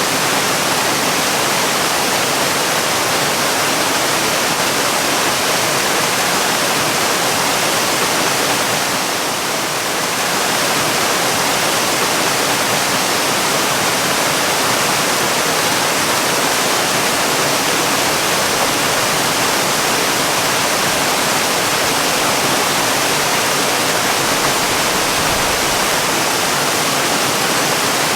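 Waterfall rushing in a steady, dense wash of falling water, dipping slightly about nine seconds in.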